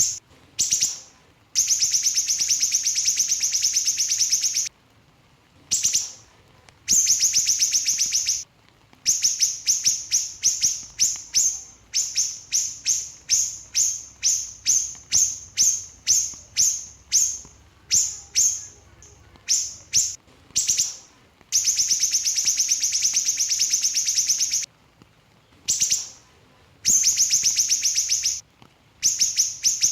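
Small siri-siri songbird singing in rapid, tightly packed bursts. Long dense trills lasting a few seconds alternate with runs of quick separate chirps, about two a second, broken by short pauses.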